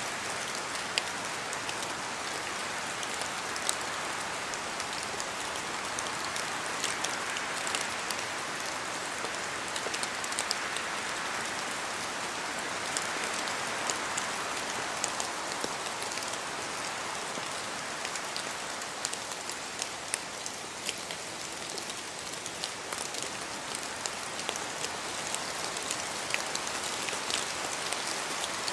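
Steady rain falling through forest trees, with many scattered drops ticking on leaves over a continuous hiss.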